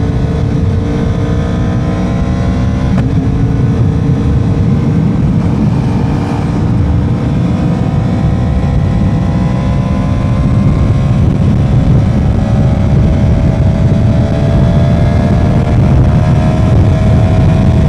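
Motorcycle engine running at road speed under heavy wind rush on the microphone. Its pitch climbs slowly, with a brief break about three seconds in.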